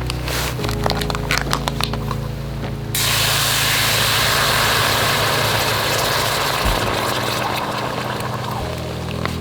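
Wood crackling and snapping for about three seconds, then a loud, steady rushing hiss starts suddenly and slowly dies away.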